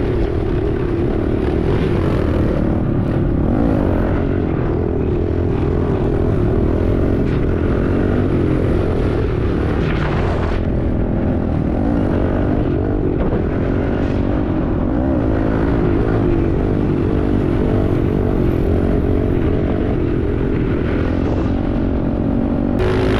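Small single-cylinder pit bike engine running under way, its pitch wavering up and down with the throttle, over a steady rush of wind noise on the microphone.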